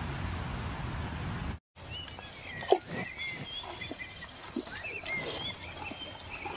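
A steady rushing noise like wind on the microphone that stops abruptly about a second and a half in, followed by small birds chirping and twittering, with one sharp click about a second later.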